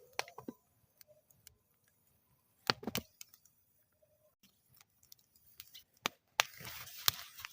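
Campfire in a metal fire bowl crackling: scattered sharp pops and snaps, a quick cluster of them about three seconds in, with a soft hiss of burning rising from about six seconds.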